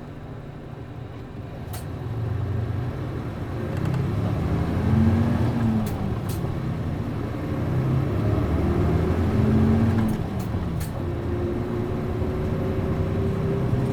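City bus MD92TJ diesel engine heard on board, pulling away and accelerating: the engine revs climb and fall back twice as the five-speed gearbox shifts up, then it runs more steadily in a higher gear. A few light clicks sound along the way.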